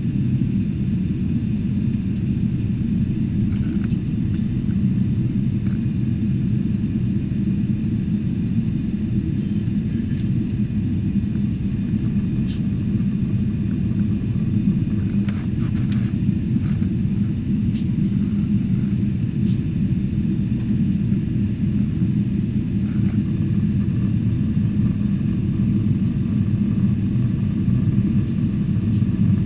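Steady low rumble of a Boeing 747-400 in flight, engine and airflow noise heard inside the cabin, with a few faint clicks partway through.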